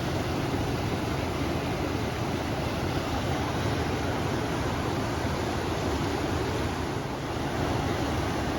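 River water rushing with wind blowing, a steady full noise heaviest in the low end.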